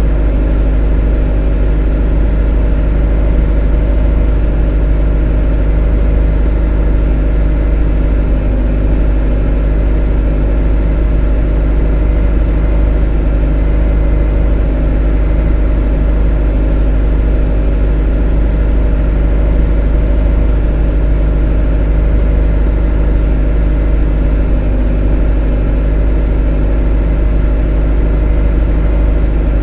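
A motor running at a constant speed: a deep, steady drone with a cluster of even tones above it, unchanging throughout.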